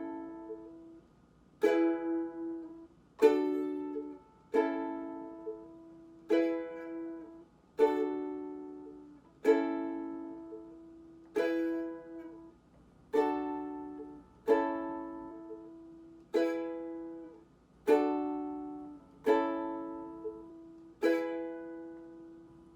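Ukulele chords strummed one at a time, a single strum about every second and a half, each left to ring and fade before the next, changing chord as it goes through a progression.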